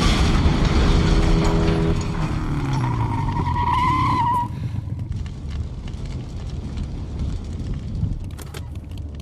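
Film sound effects of a vehicle: a heavy engine rumble with a wavering tire squeal about three to four and a half seconds in. After that it drops to a quieter rumble with scattered faint clicks.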